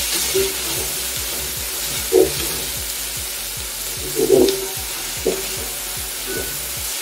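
Sliced onion rings sizzling as they fry in oil in a pot, stirred with a wooden spoon that scrapes the pot now and then, with a few louder scrapes.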